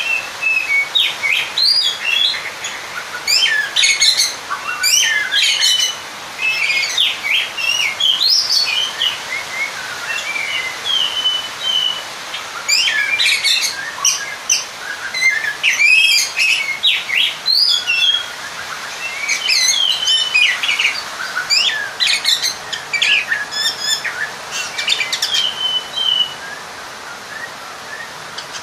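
Oriental magpie-robin (kacer) singing in fast phrases of varied whistles, chirps and rough notes, broken by short pauses. It is the song of a male seeking out a rival, used to rouse other kacer males to answer and fight.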